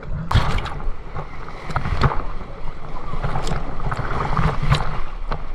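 Water rushing and splashing, with several sharper splashes standing out.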